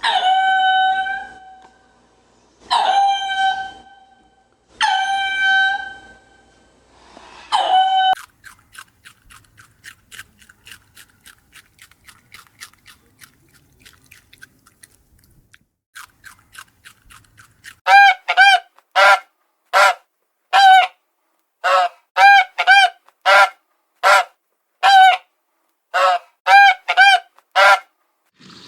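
Farm birds calling. First come four long, pitched honking calls about two seconds apart, then faint rapid peeping, then from about two-thirds of the way in a fast series of short, loud honks.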